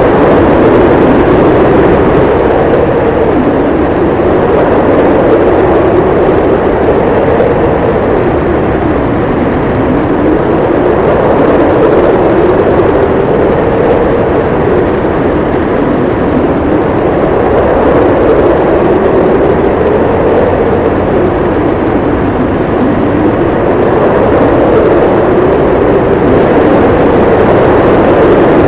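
Howling blizzard wind: a continuous rush of noise with a moaning tone that slowly rises and falls in pitch, swelling and easing every several seconds.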